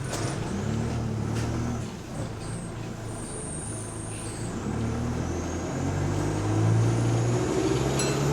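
Bus heard from inside, moving off: a short hiss of air at the start, then the engine working up through the gears, its note climbing and stepping, with a faint whine rising over the second half.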